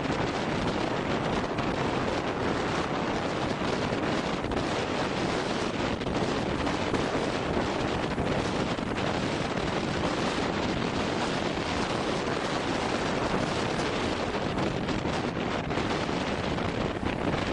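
Strong wind buffeting the microphone, with rough sea surf breaking underneath in a steady, unbroken rush of noise.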